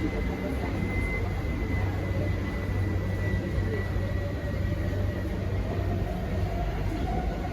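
Inside an SMRT C151C metro train car running along the track: a steady low rumble, with a faint high whine that slowly drops in pitch and a mid-pitched tone that rises near the end.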